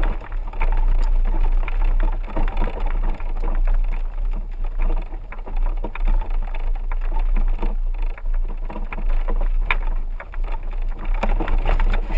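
4x4 vehicle driving: a steady low rumble with frequent rattles and knocks.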